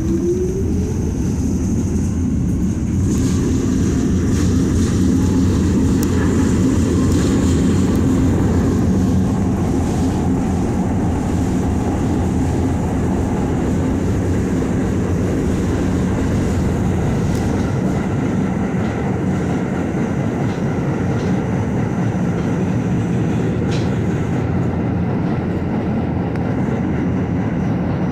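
Staten Island Railway R44 railcar running along the line: a steady loud rumble of wheels on rail and running gear. Right at the start a motor whine rises in pitch as the train gathers speed.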